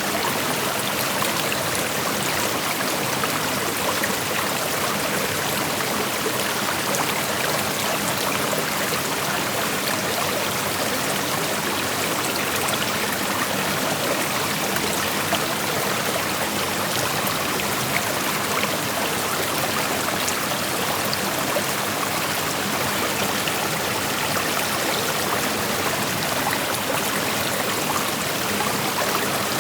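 A creek flowing over rocks: steady rushing and burbling water, even and unbroken, with small splashes here and there.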